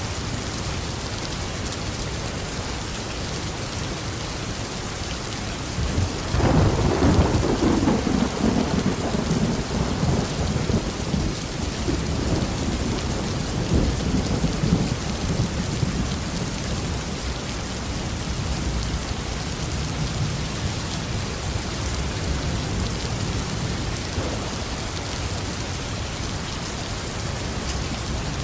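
Steady heavy rain with a clap of thunder about six seconds in, rumbling and slowly dying away over the following ten seconds.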